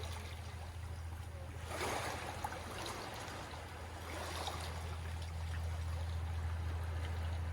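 Gentle waves washing and lapping at the shore, with soft swells about two, three and four and a half seconds in. A steady low hum runs underneath.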